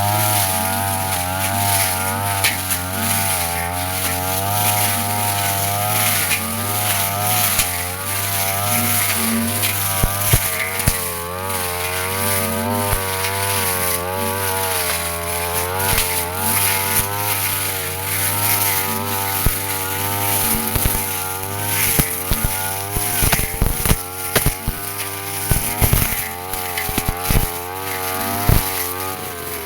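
Petrol brush cutter engine running hard, its pitch wavering up and down as the spinning metal blade cuts through grass. Sharp clicks and knocks of the blade striking stems and debris come now and then, more often in the last several seconds.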